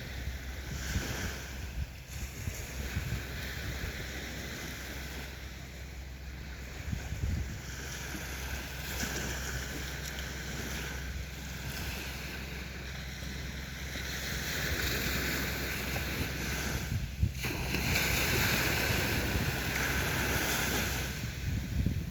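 Sea waves washing onto the beach, with surges that swell and ebb and grow louder near the end, over a low rumble of wind on the microphone.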